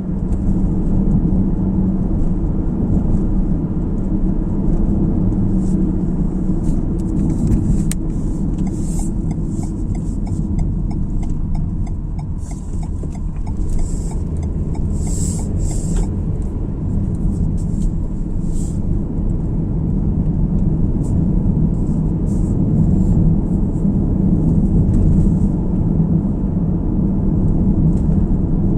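Car driving on the road: a steady rumble of tyres and engine. A faint, evenly spaced ticking runs for several seconds in the middle.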